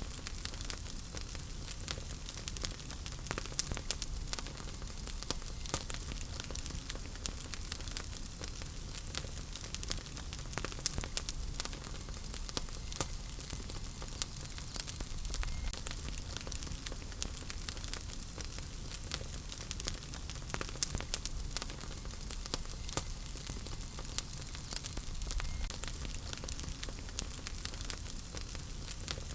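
Wood fire burning in a fireplace: a steady low rumble and hiss under frequent irregular crackles and pops.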